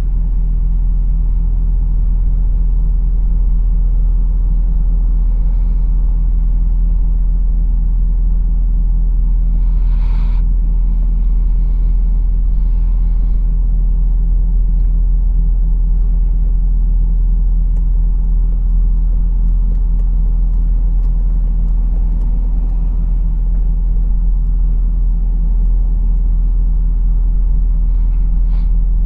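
Lorry's diesel engine droning steadily while driving, heard from inside the cab. There is a brief hiss about ten seconds in and another near the end.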